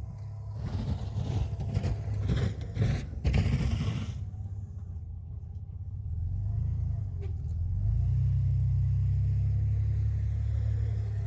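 Snowplow pickup truck engine running under load, with loud scraping and rattling for the first few seconds, then a steady drone that rises and holds about two-thirds of the way through.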